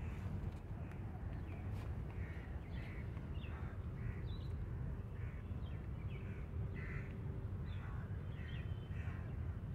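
Birds calling outdoors in many short calls, about two a second, over a steady low rumble.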